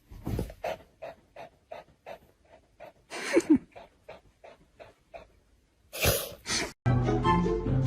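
A dog panting in quick, even breaths, about three a second, with a brief falling whine in the middle, then two loud sharp bursts of breath about six seconds in. Music starts near the end.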